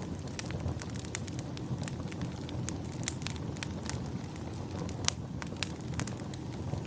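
Wood fire crackling in a fireplace: irregular sharp pops and snaps over a steady low rumble of the flames, with a louder pop about three seconds in and another about five seconds in.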